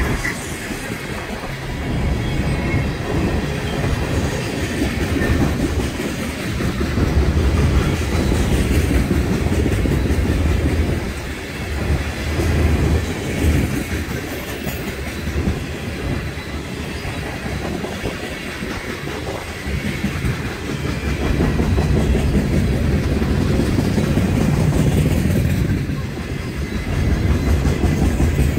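CSX mixed freight train of tank cars and boxcars rolling past: a steady low rumble and clatter of steel wheels on the rails, swelling and easing slightly as the cars go by.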